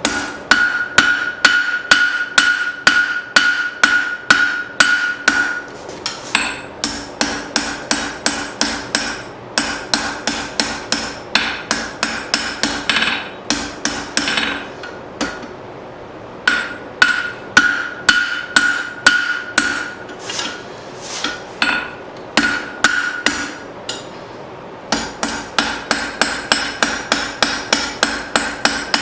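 Rounding hammer striking half-inch round steel stock over the anvil horn in quick, even blows of about three a second, each with a ringing metallic tone. The hammering stops briefly twice, about halfway and again near the end.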